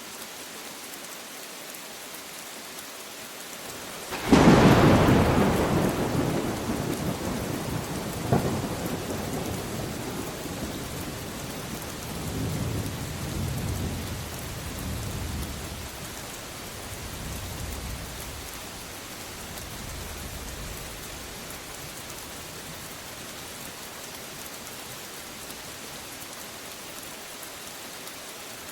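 Steady rain with a close thunderclap: a sudden sharp crack about four seconds in, a second crack a few seconds later, then a low rumble that rolls on in waves and dies away, leaving only the rain.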